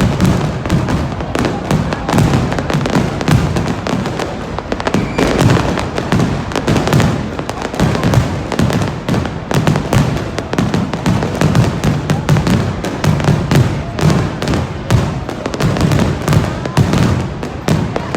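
Fireworks going off without pause: dense crackling over many overlapping low booms.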